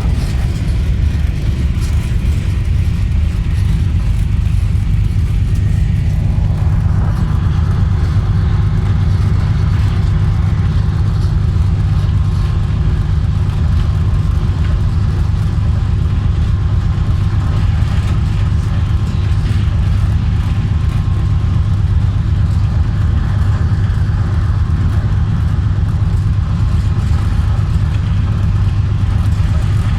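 Moving passenger train running at speed: a steady, loud low rumble of the diesel locomotive and wheels on the track, which turns a little brighter about seven seconds in.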